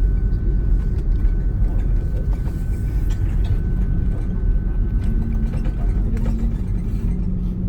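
Airbus A330 cabin noise: a steady low rumble from the engines and the airframe, with light rattles of cabin fittings. A thin high steady tone stops about six seconds in.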